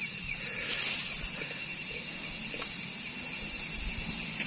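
Night insect chorus, a steady high-pitched chirring on two pitches, with a few faint clicks.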